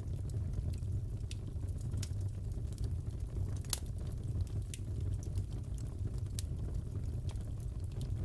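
Wood fire crackling in a fireplace: a steady low rumble with scattered sharp pops, the loudest a little past the middle.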